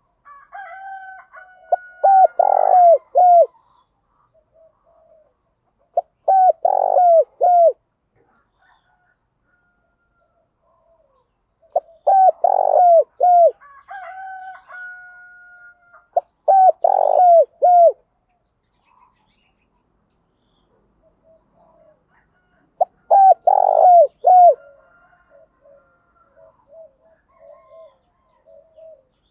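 Spotted dove cooing: five separate phrases of several short, rolling coos, a few seconds apart. A thin drawn-out higher note comes before two of the phrases.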